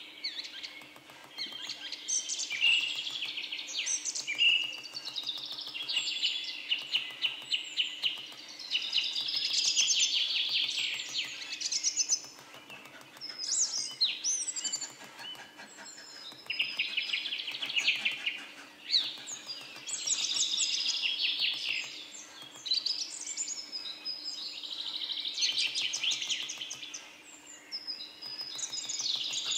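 A small songbird singing in long phrases of rapid trills and short whistled glides, one phrase after another with brief gaps.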